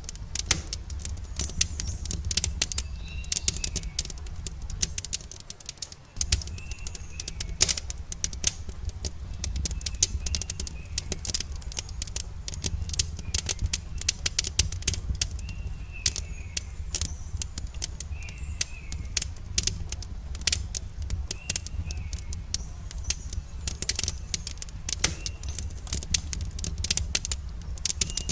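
Wood campfire crackling with frequent sharp pops and snaps over a low rumble, while small birds chirp every few seconds. The low rumble drops out briefly about six seconds in.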